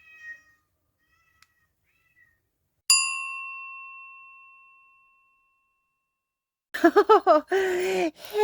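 A cat meowing a few short times, then a single bell ding about three seconds in that rings out and fades over about two seconds. Near the end a loud voice starts in, sliding up and down in pitch like singing.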